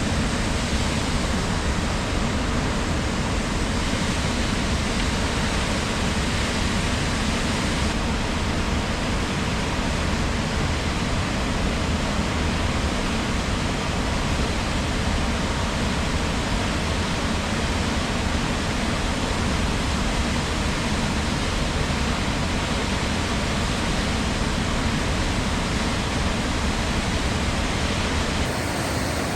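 A waterfall rushing in a steady, unbroken wash of water noise.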